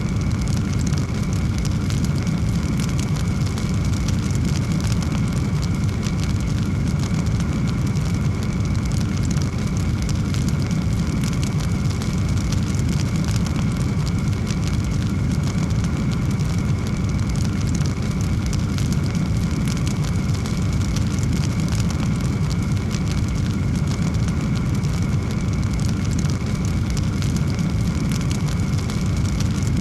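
Wood fire burning with a steady low rush of flame and many small, quick crackles and pops.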